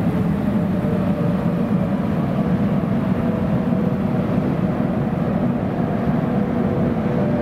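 CP 5600-class electric locomotive hauling a train of coaches as it runs into an underground station platform: a steady, loud low rumble of the locomotive and wheels on the rails, closed in by the tunnel.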